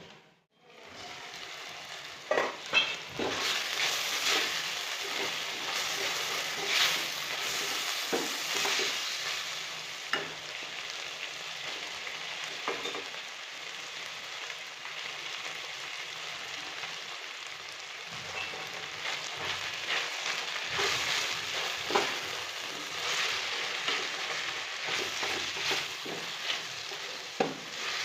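Food sizzling as it fries in a hot pan, a steady hiss broken by scattered scrapes and knocks of a utensil stirring it.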